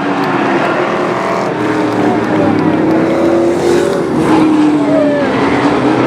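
Several race trucks running together around a short oval, their engines overlapping and rising and falling in pitch as they pass.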